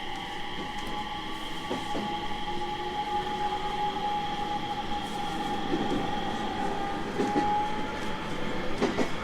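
JR 701 series 1000 subseries electric train running, heard on board: a steady whine from the inverter and traction motors over wheel and track rumble, slowly getting louder. A few clicks from wheels crossing rail joints come about two seconds in, again around seven seconds, and in a cluster near the end.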